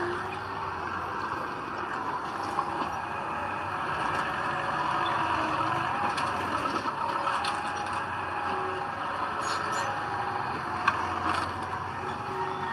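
Heavy earthmoving machinery running steadily, a diesel dump truck or bulldozer at work, with a few sharp clicks, the loudest near the end.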